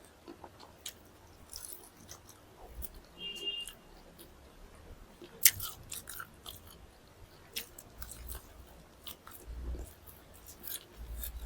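Close-miked chewing and biting of chicken drumsticks and rice: scattered wet mouth clicks and crunches, with one sharp click about five and a half seconds in.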